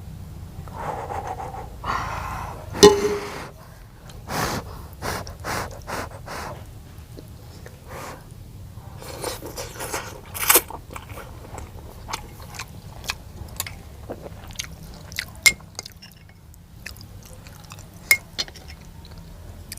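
Close-up eating sounds: a person biting and chewing crunchy food, in a string of sharp crunches and clicks. The loudest crunch comes about three seconds in.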